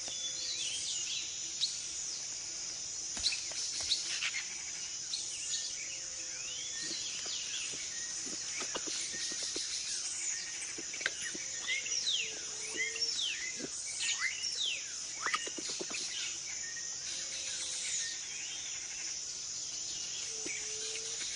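Tropical rainforest ambience: a steady high insect drone with many short, quick bird chirps scattered throughout, and now and then a faint low whistled call.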